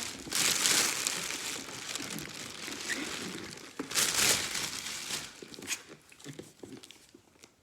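Crinkling and rustling of firework packaging being handled, loudest near the start and again about four seconds in, then fading out.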